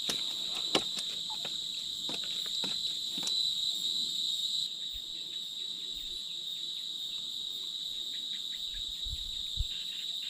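Insects trilling steadily at one high pitch, with a few sharp light clicks in the first few seconds and faint low knocks near the end.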